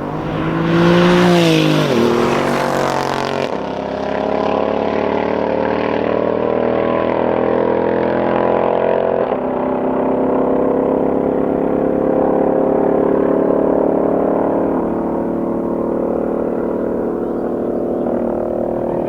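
Mercedes-AMG V8 engine revved hard in the first few seconds, its pitch rising and then falling, then running at a steady, loud note whose higher tones slowly fade.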